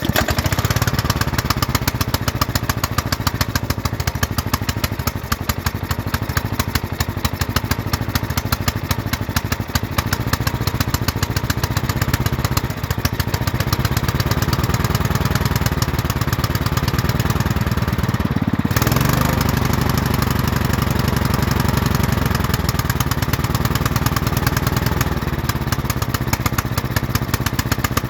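Small petrol engine of a homemade project truck running steadily on its own after an ether-primed start, with a brief change in its sound a little past halfway.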